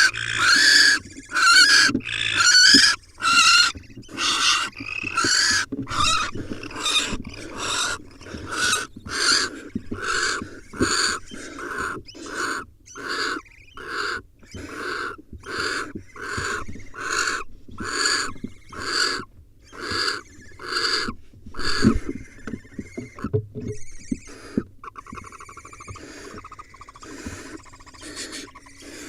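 Barn owls in a nest box giving a long series of loud, rasping hiss-like calls, about two a second, typical of nestlings begging during a prey delivery. The calls stop about 22 seconds in, and quieter scratching and rustling follows.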